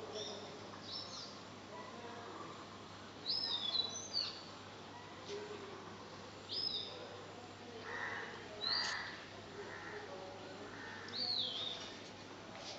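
Birds calling: short whistled notes that swoop up and down, repeated every two to three seconds, the loudest cluster about three to four seconds in, over a steady background hiss.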